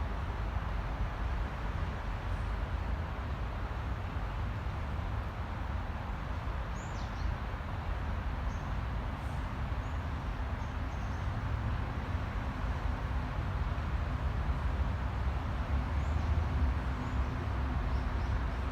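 Steady distant city traffic rumble heard from within a wooded path, with faint, brief bird chirps now and then, a few more of them near the end.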